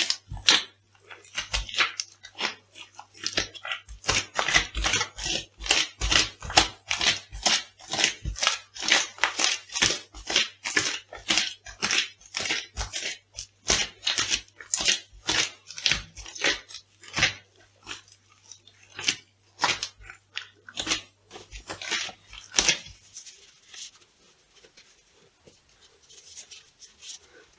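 Food crunching and crackling as it is crushed, a fast run of crisp cracks that stops about 23 seconds in, leaving only faint rustling.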